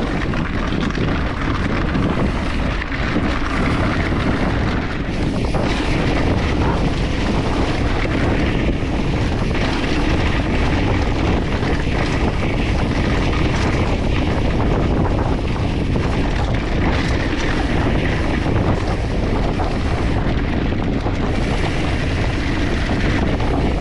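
Wind buffeting the camera microphone with the rumble and rattle of a mountain bike rolling fast downhill on a dirt trail. It is a loud, steady rushing noise with no let-up.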